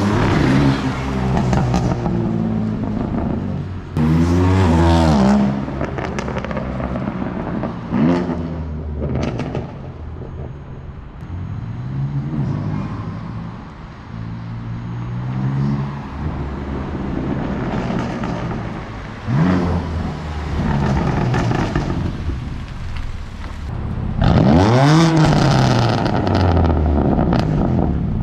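BMW M4 CS twin-turbocharged straight-six accelerating hard several times. Its pitch climbs through each gear and drops at every upshift.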